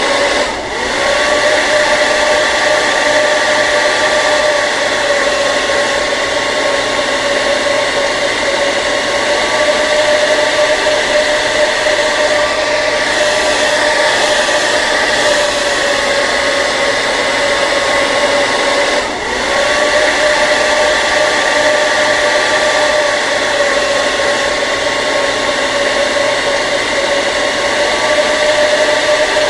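Hair dryer running steadily: a continuous rush of air with a steady motor whine, dipping briefly twice, about a second in and again a little past the middle.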